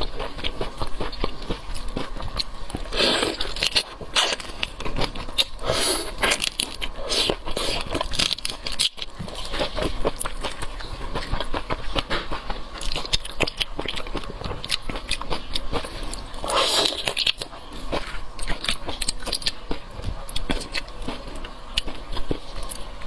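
Close-miked eating of seafood: biting and chewing with irregular crackling and scraping sounds, as of shells being handled, with a few louder crunchy bursts.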